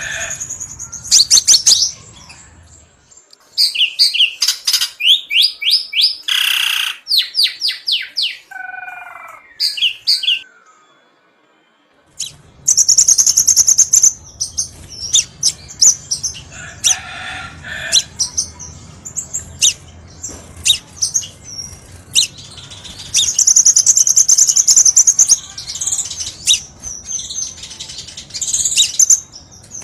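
Crimson sunbird song: rapid high-pitched chirps, twitters and fast trills of repeated notes, with a brief pause about eleven seconds in.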